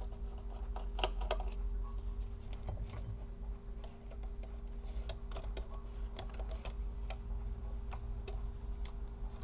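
Light, irregular clicks and ticks of a small screwdriver working the screws holding a laptop's LCD cable, over a steady low hum.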